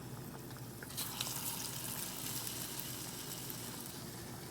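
Batter-coated potato fritters frying in hot oil: a steady sizzle that grows louder about a second in.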